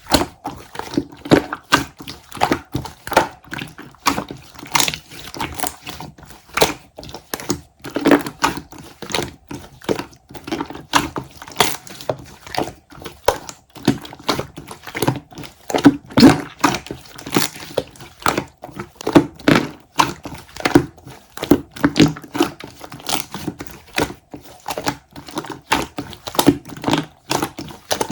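A close, irregular run of light taps and clicks, several a second, mixed with crinkling.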